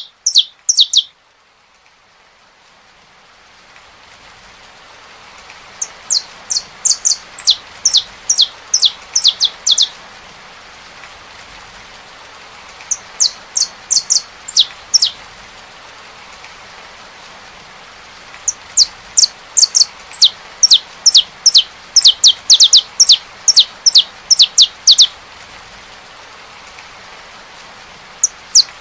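Saffron finch singing in several bouts of rapid, high notes, each note sweeping downward, with pauses of a few seconds between bouts. Steady rain hiss fades in during the first few seconds and runs under the song.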